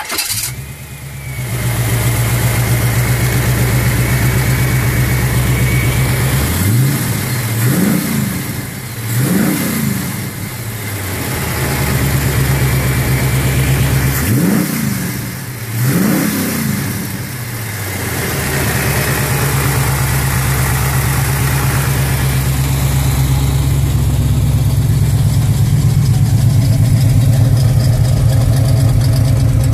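1973 Chevy Nova's 327 small-block V8 catching and settling into a steady idle, then revved in four quick blips, two pairs about 7 to 17 seconds in, before returning to a steady idle.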